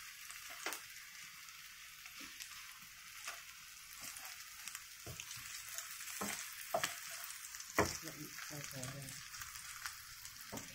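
Egg and chopped green beans sizzling in oil in a frying pan, a steady hiss, while a wooden spatula stirs them, with scattered scrapes and knocks against the pan, the sharpest about eight seconds in.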